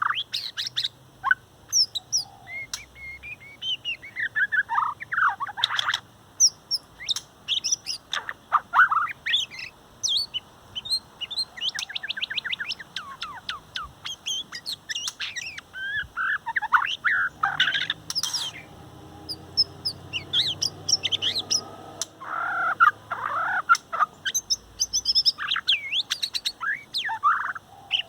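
Adult male shama singing a long, varied song of clear whistled phrases with short pauses between them, including a fast stuttering trill about twelve seconds in.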